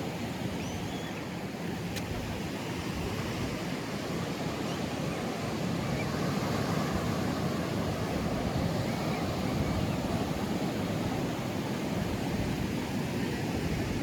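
Pacific surf washing onto the beach: a steady rush of breaking waves that swells a little about halfway through.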